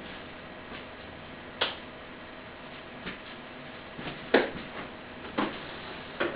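A handful of separate sharp clicks and knocks over a steady low hiss, the loudest a little past four seconds in: hand tools and small fridge parts being handled while the door hinges and handles are swapped over.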